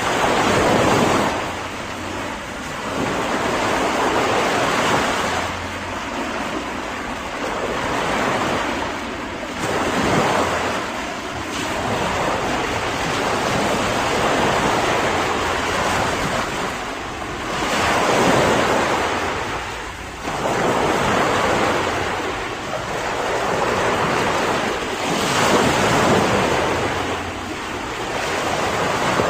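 Ocean waves breaking and washing on the shore, the surf swelling and easing every few seconds, with wind noise.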